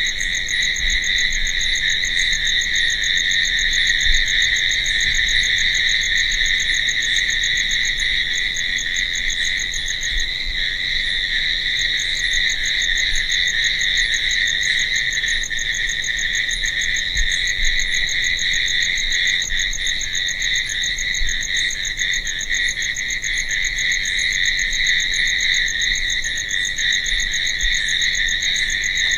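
Night chorus of crickets chirping: a steady, unbroken trill with a faster, higher pulsing chirp over it that drops out briefly partway through.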